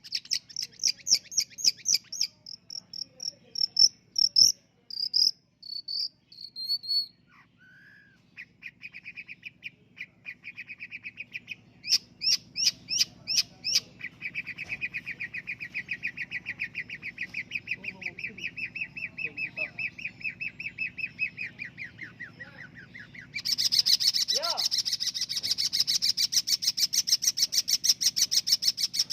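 Long-tailed shrike (pentet) singing a varied run of rapid repeated notes and chattering trills that change every few seconds. About two-thirds of the way through, a louder, higher, very fast trill sets in.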